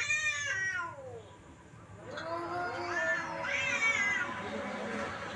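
Domestic cat meowing: a long wavering meow trailing off in the first second, then after a short pause a run of drawn-out, wavering meows.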